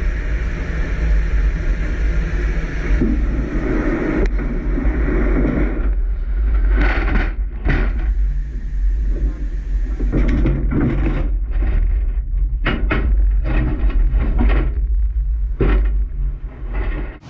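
Icebreaker's engines rumbling low and steady. A run of irregular knocks and clatters comes through in the second half.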